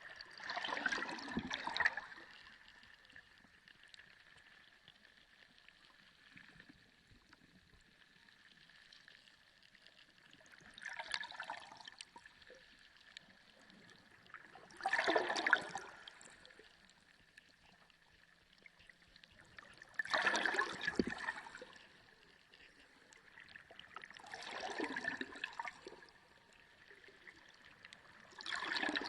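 Sea water gurgling and sloshing in surges that each last a second or two and come every few seconds, six times in all, over a faint steady high-pitched tone.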